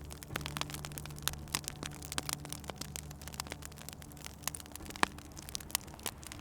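Wood fire crackling, with irregular sharp pops and snaps, over a low steady drone.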